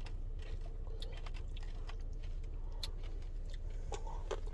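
A person eating a Blizzard ice-cream treat: chewing, with small irregular clicks and taps scattered throughout, over a steady low hum.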